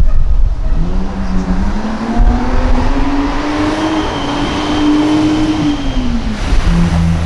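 Rally car engine pulling hard on a special stage, its pitch climbing steadily for several seconds and then dropping away. A second, steadier engine note comes in near the end.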